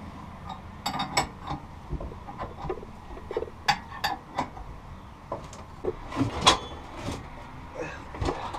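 Irregular metallic clinks and taps of hand tools against the exhaust manifold and pipe stub as the broken exhaust pipe piece is worked out of the manifold, the loudest about six and a half seconds in.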